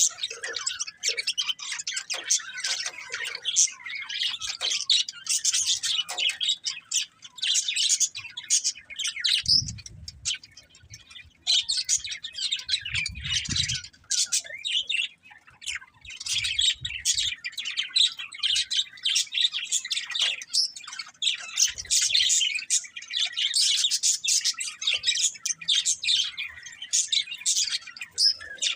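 Budgerigars chattering in a near-continuous stream of rapid, high chirps and warbles, with a few brief lulls and some soft low thumps around the middle.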